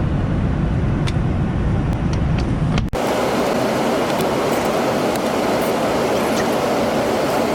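Steady airliner cabin noise, the drone of the engines and rushing air heard from inside the cabin. It is a deep rumble at first, and about three seconds in it changes abruptly to a steady, hissier drone, with a few faint clicks.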